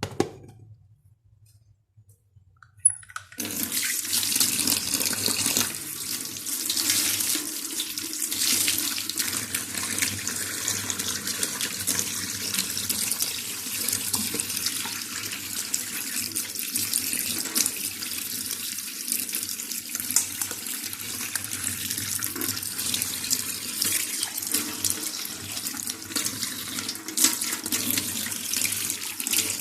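A short click, then tap water starts running into a sink about three seconds in and runs on steadily.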